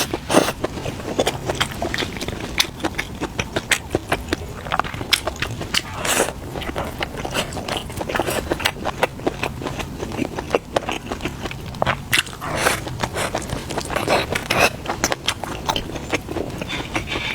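Close-miked chewing and biting: a steady run of wet mouth clicks and small crunches from someone eating.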